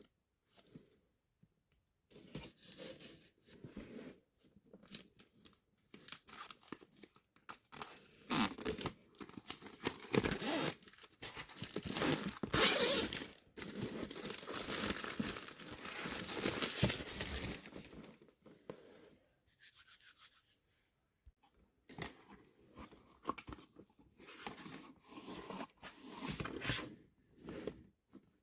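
Hands handling packaging or plastic parts: irregular rustling, rubbing and crinkling, busiest and loudest through the middle stretch.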